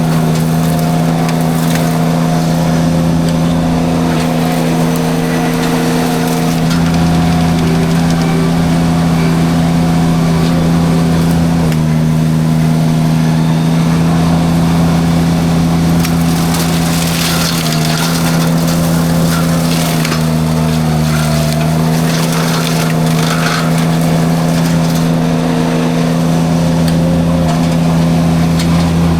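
Derette V1000 mini skid steer's engine running hard and steady while its forestry drum mulcher grinds through brush, the engine note sagging briefly a couple of times under load. Crackling and splintering of wood being shredded is loudest about midway.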